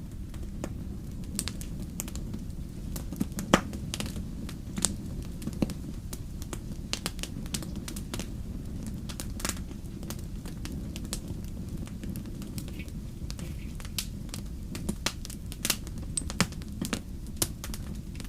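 Fire crackling steadily: irregular sharp pops and snaps, one louder pop about three and a half seconds in, over a low, even rumble.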